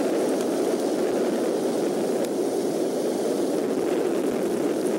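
Steady rush of rain and wind on the nest-camera microphone, with a few faint ticks of drops.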